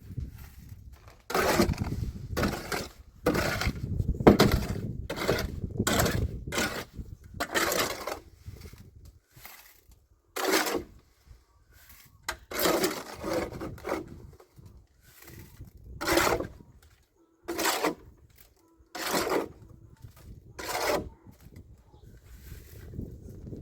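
A long series of irregular, short scraping strokes, one or two a second with brief pauses, as of a hand tool working through gritty material.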